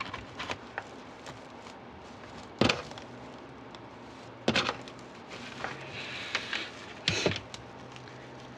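Handling noises: a few sharp knocks and clatters, the loudest about two and a half, four and a half and seven seconds in, with a brief rustle between them.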